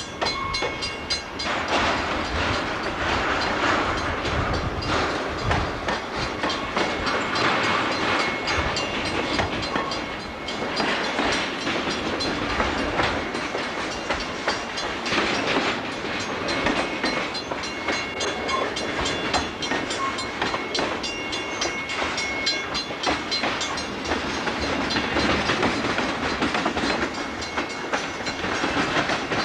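Freight train cars rolling over a railroad diamond crossing, their wheels clattering steadily over the crossing's rail gaps.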